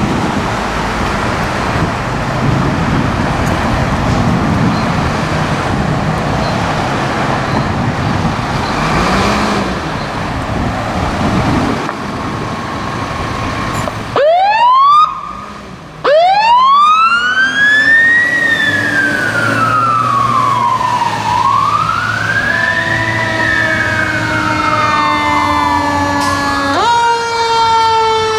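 Responding fire trucks: road and engine noise for the first half, then sirens start about halfway in, a siren winding up in fast rising whines, then a wail sweeping slowly up and down. Near the end steady multi-tone blasts sliding slightly down in pitch as the trucks pass.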